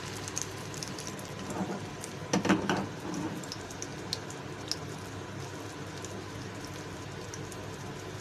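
Beef shami kababs shallow-frying in oil in a non-stick pan: a steady, soft sizzle with scattered small pops. A brief louder noise comes about two and a half seconds in.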